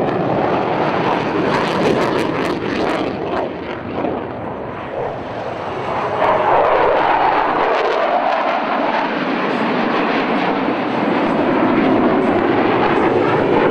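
Jet engine noise of F-16 fighter jets flying a display pass, a steady rushing roar that dips slightly and then swells louder about six seconds in.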